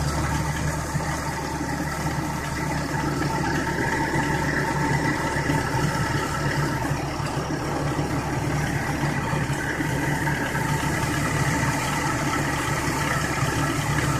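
Chevrolet engine idling steadily just after a cold start in 39-degree weather.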